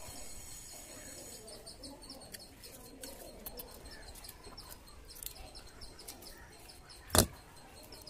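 Faint chirping of small birds, with one sharp knock about seven seconds in.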